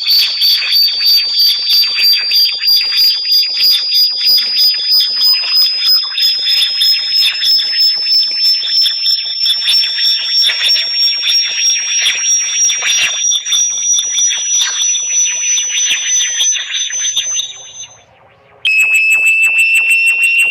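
Synthesized high-pitched electronic tone of a bat-repellent sound track, pulsing rapidly while its pitch slowly rises. It cuts out for a moment about 18 seconds in, then starts again at a lower pitch.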